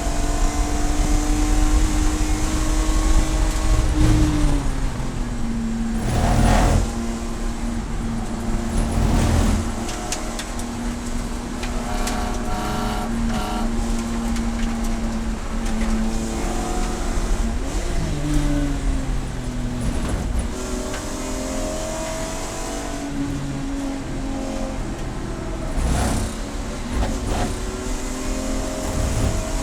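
Race car engine running on track, its pitch stepping down about four seconds in and changing again past the middle as it brakes and accelerates, with a few short, loud rushes of noise.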